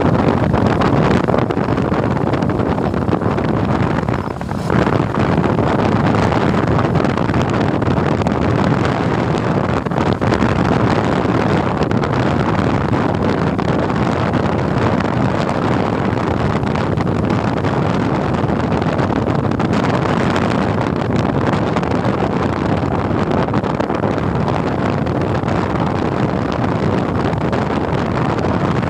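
Loud, steady wind rush over the microphone of a moving motorcycle, with road and engine noise mixed in. It dips briefly about four seconds in.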